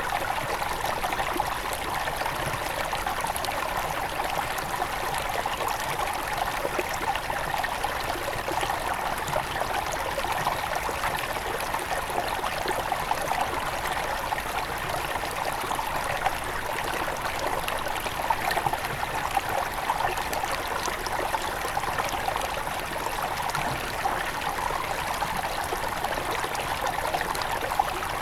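Small forest river at its headwaters flowing and trickling over stones: a steady, even rush of water with fine splashing and gurgling.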